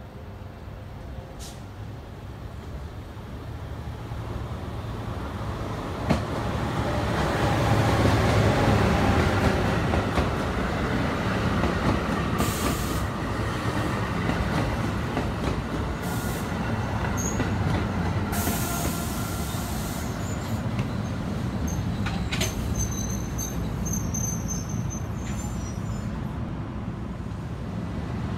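NJ Transit ALP-45DP locomotive running on diesel with a train of MultiLevel coaches, rumbling louder as it approaches and passes about eight seconds in, then the coaches rolling by with a steady rumble. Brief hissing comes twice midway, and thin high squeals come near the end.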